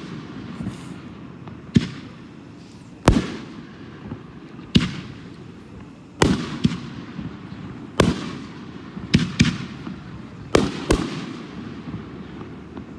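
60-gram consumer canister shells fired from mortar tubes, launching and bursting in turn: a string of about ten sharp reports, irregularly spaced, each with a trailing echo.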